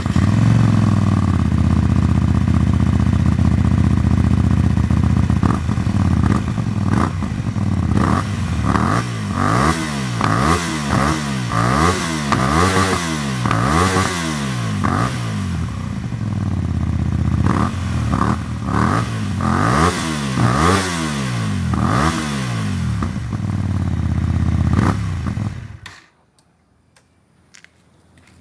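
Hyosung GT250 250 cc V-twin running through an aftermarket exhaust. It idles, then is revved again and again with quick throttle blips that rise and fall in pitch, settles back to idle, and is switched off about 26 seconds in.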